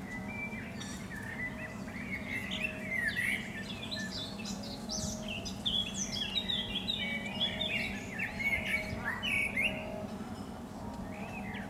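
Songbirds chirping and singing, many short quick calls overlapping and busiest in the middle, over a steady low hum.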